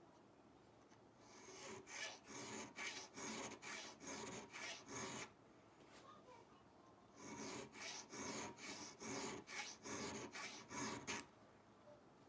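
A hand file or abrasive being worked back and forth over a steel edge iron to clean it up, in two runs of quick scraping strokes, about two to three a second, with a short pause between the runs.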